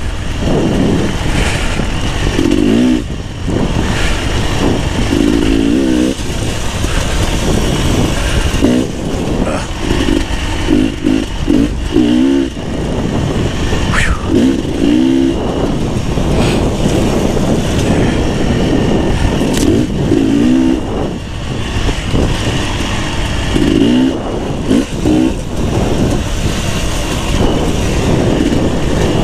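Beta 300 RR two-stroke dirt bike engine ridden along a trail, the revs rising and falling over and over as the throttle is worked every second or two.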